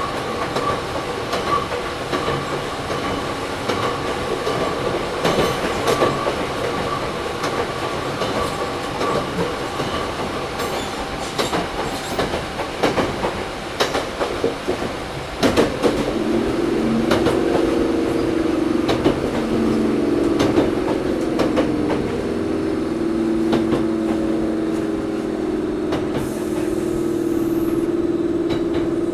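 Running sound inside a Toyohashi Railway 1800-series electric car (ex-Tokyu 7200, resistance-controlled), with the wheels clicking over rail joints. About halfway through, the sound gets louder and a steady droning hum from the running gear sets in.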